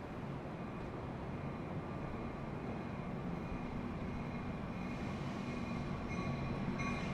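A steady low mechanical rumble that grows slowly louder, with thin high steady tones joining in near the end.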